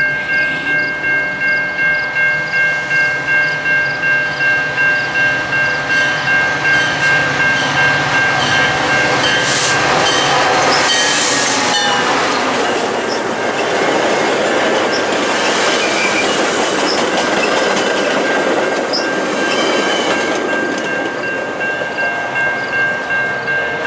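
Grade-crossing bell ringing in a steady rhythm while a Metra commuter train, a diesel locomotive and bilevel passenger cars, passes close by. The wheels rumble and clatter over the rail joints for about twelve seconds, drowning the bell, which is heard clearly again once the train has gone.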